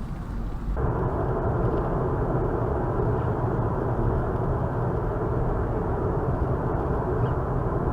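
Steady road and engine rumble of a moving car, recorded by a dashcam microphone inside the car. About a second in the sound changes abruptly to a duller, louder rumble that holds steady.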